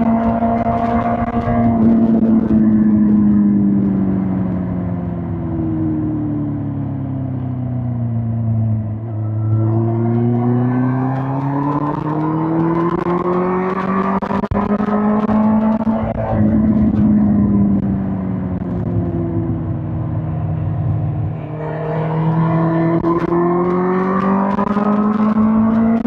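Suzuki GSX-R1000 K5's inline-four engine under way on the road, its pitch falling slowly as the bike slows for the first several seconds, then climbing as it accelerates, with sudden jumps in pitch at gear changes about two-thirds of the way in and again near the end.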